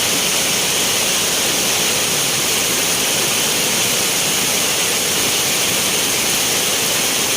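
Heavy rain pouring down, a dense, steady, loud hiss of water with no break.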